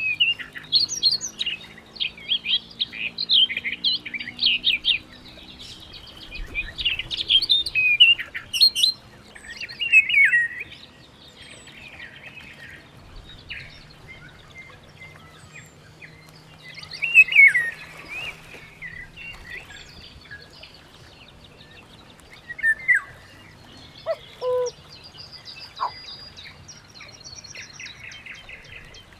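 Several birds chirping and twittering in quick high calls, thick at first and then coming in bursts with pauses between. A short lower call comes in twice a little before the end.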